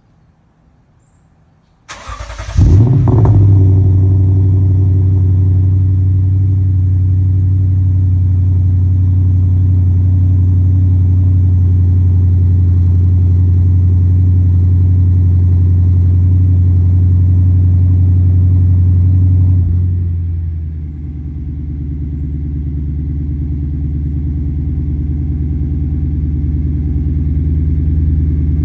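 Lexus IS500's 5.0-litre V8 through an A'PEXi axle-back exhaust on a cold start: it cranks and catches about two seconds in with a short flare, then holds a steady, elevated cold-start idle. About 20 seconds in the idle drops to a lower, deeper note as the fast idle comes down, and then slowly grows a little louder.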